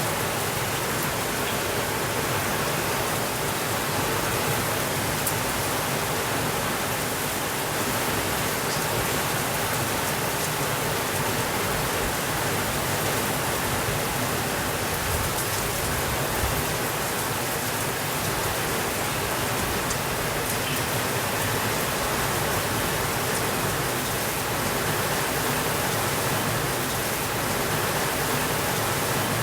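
Steady rainfall, an even hiss without a break or change in level, with faint scattered ticks of drops.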